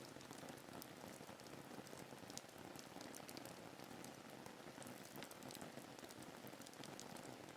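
Faint steady rain: an even hiss of rainfall with many small scattered droplet ticks.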